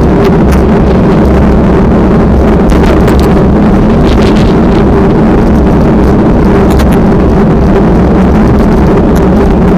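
Strong wind buffeting the microphone: a loud, steady rumble with a few brief gusty flares and no pauses.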